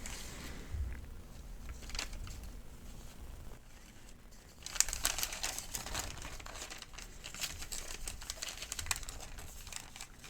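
Paper medication guide sheets crinkling and rustling as they are handled, with sparse crackles at first and denser crinkling from about halfway.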